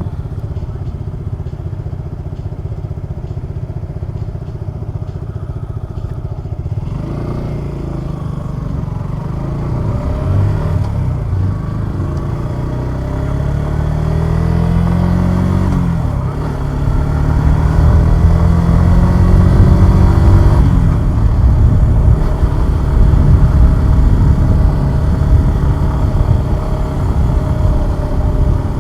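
Single-cylinder 150 cc Suzuki Gixxer 150SF motorcycle engine heard while riding. After a steady low rumble, the engine revs up through the gears, its pitch climbing and then dropping at two gear changes about halfway through, before settling to a steady, louder cruise.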